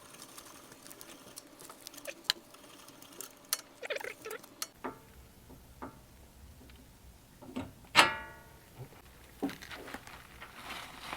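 Small metal parts and hand tools clinking and tapping in scattered, irregular knocks during suspension work. One sharper clink rings briefly about eight seconds in.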